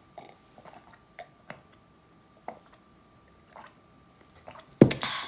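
Soft wet mouth sounds and small clicks of someone chewing, then a short loud burst of noise near the end.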